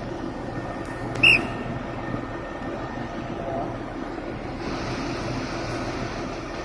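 Floating crane's machinery running with a steady low drone. About a second in there is one brief, loud, high squeal, and about two-thirds of the way through a steady hiss comes in over the drone.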